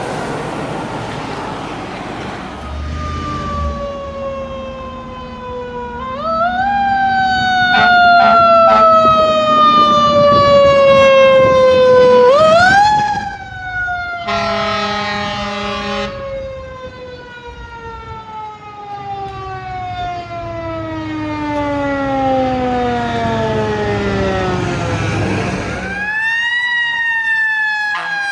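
Fire truck siren winding up and then falling slowly in pitch over several seconds, repeated about four times, with a horn blast for about two seconds near the middle.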